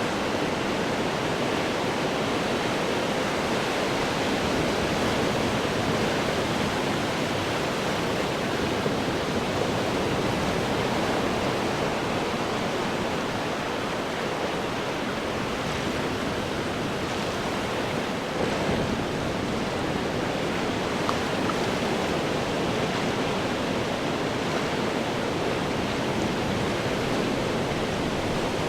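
Ocean surf washing over rocks: a steady roar of churning water, even in loudness, with no single wave crash standing out.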